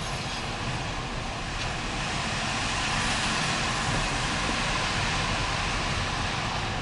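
Empty autorack freight cars rolling past: a steady noise of steel wheels on the rails, swelling a little in the middle.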